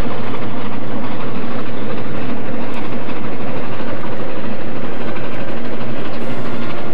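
A passenger train running past on the rails, a steady rumble and rattle of the cars rolling by.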